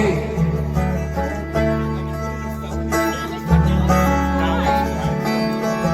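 Live rock band playing an instrumental passage between sung verse lines: guitars ringing over a steady bass.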